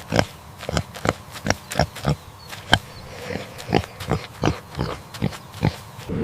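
Pigs grunting: a run of short, sharp grunts, about three a second, irregular in spacing.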